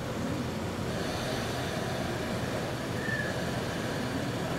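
An electric train moving slowly through a rail depot: a steady rumble, with a brief high tone about three seconds in.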